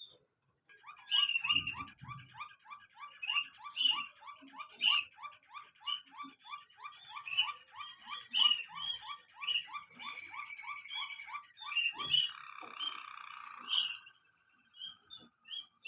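Waterslager song canary singing: a long run of quickly repeated low notes, about three a second, with higher chirps over them. Near the end this turns into a steady rolling trill, which stops shortly before the end.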